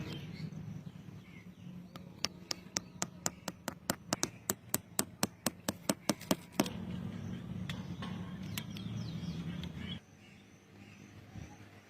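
A quick run of sharp taps or knocks, about four or five a second for several seconds, over a steady low hum that cuts off near the end.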